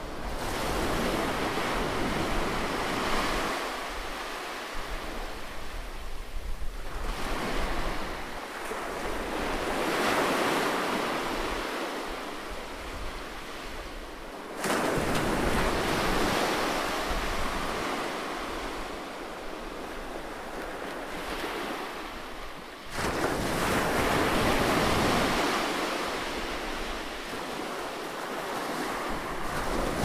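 Ocean waves surging and washing, a continuous rushing that swells and fades every few seconds. The loudness jumps up suddenly about halfway through and again about three-quarters of the way through.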